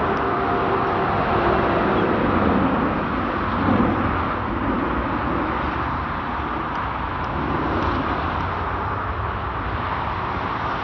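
Jet roar of a Boeing 757-200's Rolls-Royce RB211 engines at takeoff power, a steady rushing noise that slowly fades as the aircraft climbs away.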